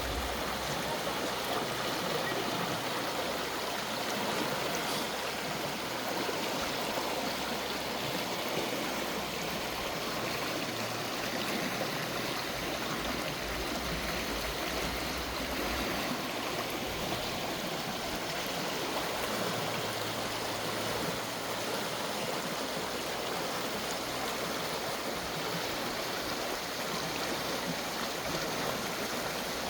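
The Murti River flowing over its stony bed: a steady rush of running water, with low rumbles of wind on the microphone now and then.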